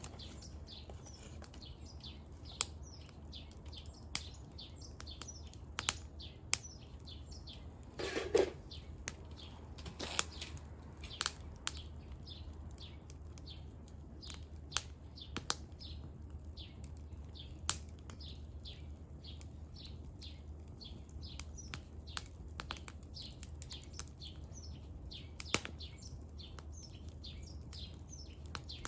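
Firewood burning in a Snow Peak Takibidai S fire pit, crackling with sharp irregular pops, and a brief louder rush of noise about eight seconds in. Birds chirp busily in the background.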